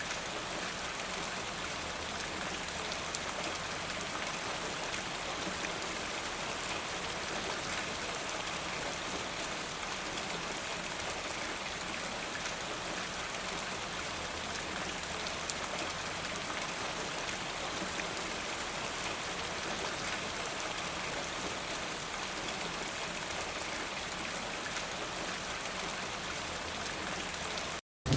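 Steady rain falling, an even hiss of many drops without let-up. It cuts out to silence for a moment near the end.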